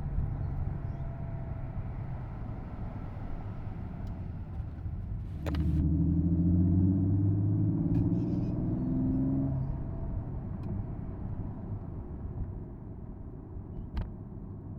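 Porsche Boxster S flat-six engine and road noise heard from the open-top cabin while driving, steady and low. About five and a half seconds in there is a sharp click, then the engine pulls harder and louder for about four seconds before settling back, with a couple of small clicks later.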